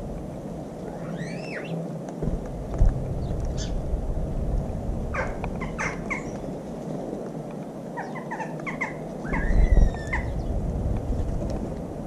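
Small birds chirping and calling in short scattered bursts, some with quick rising and falling whistles, over a steady low rumble. There is a low thump about three seconds in and a louder rumble near ten seconds.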